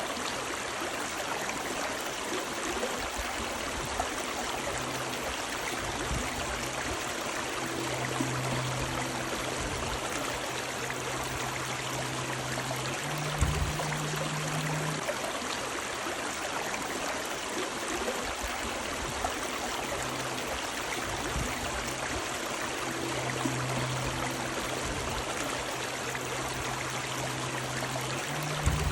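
River water running and rushing steadily over rocks. A faint low hum comes and goes, with a soft thump about halfway through and another near the end.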